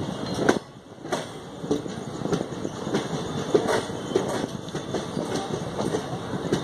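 Passenger express train running through a station: steady rumble with irregular clacks of the wheels over the rails, heard from the side of a moving coach.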